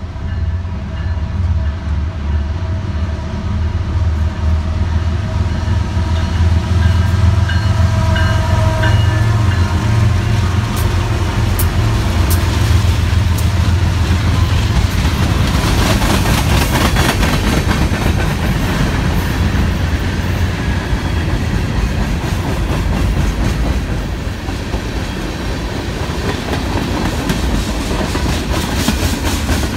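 BNSF freight train passing. A deep diesel locomotive engine rumble builds as the engines approach and go by. Then the freight cars roll past with a steady clickety-clack of wheels over the rail joints.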